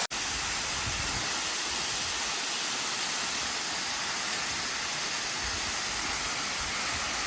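Waterfall rushing: a steady, even hiss of falling water, with a few low rumbles underneath.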